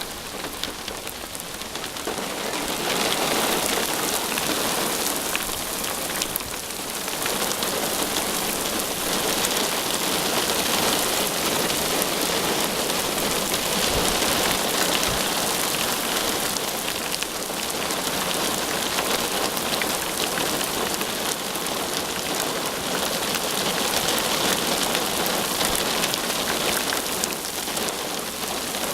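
Heavy thunderstorm rain pouring down in a steady hiss, growing heavier about three seconds in.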